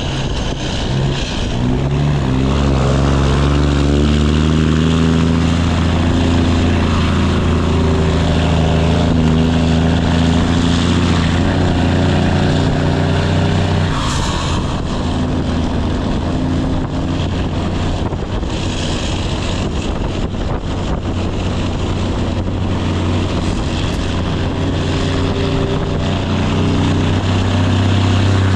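Straight-piped Cummins ISX inline-six diesel in a Kenworth W900 running under load, a loud, steady exhaust drone whose pitch climbs a little in the first few seconds. A brief burst of hiss comes about halfway through.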